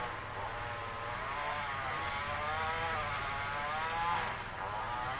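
Gas string trimmer's small two-stroke engine running, its pitch wavering up and down, over a steady low hum.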